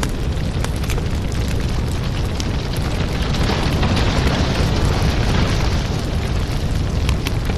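Firewood burning: a steady low rush of flames with frequent sharp crackles and pops, the rush swelling a little in the middle.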